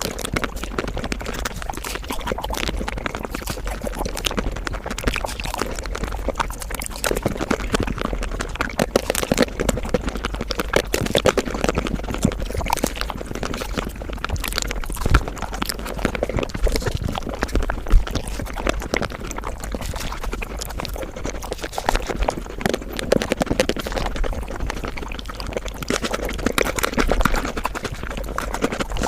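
Close-miked eating sounds sped up five times: chewing, smacking and slurping run together into a dense, rapid stream of clicks and wet noises.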